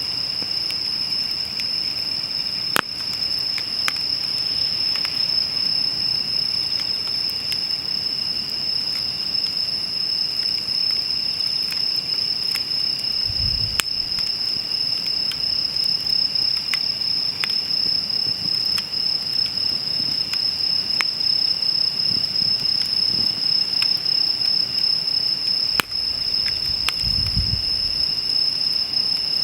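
Steady high-pitched chorus of crickets trilling, with a wood campfire crackling now and then and three sharper pops.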